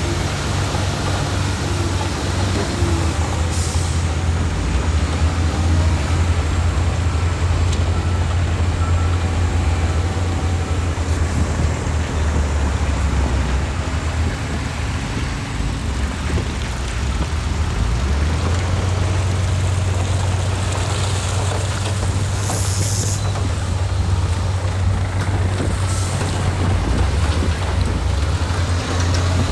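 Heavy diesel earthmoving machinery running steadily with a deep engine rumble. Short hisses come about four seconds in and again around twenty-two to twenty-six seconds in.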